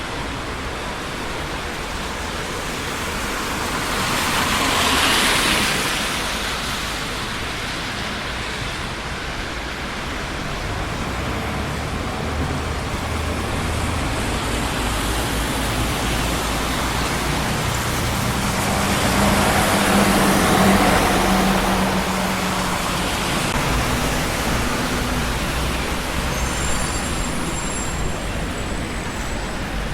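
Steady traffic noise of a busy city street, cars passing continuously. Two vehicles pass closer and louder, one about five seconds in and a heavier one with a low engine note around twenty seconds in.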